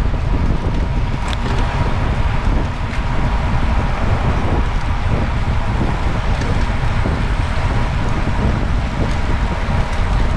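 Wind rushing over the microphone with a steady road and traffic rumble underneath.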